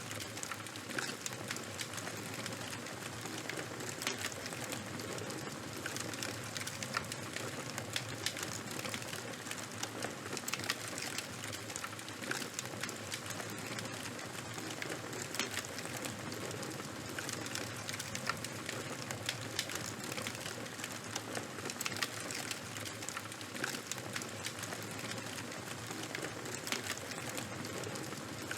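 Charcoal fire burning, with a steady hiss and frequent sharp crackles and pops.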